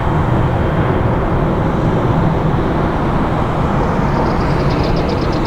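Boeing 747-400 freighter's jet engines rumbling steadily as it climbs away after takeoff. A faint run of rapid, evenly spaced high chirps, about five a second, comes in about four seconds in.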